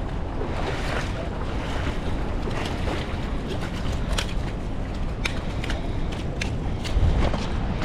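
Steady wind rumble on the microphone, with a few scattered short sharp clicks.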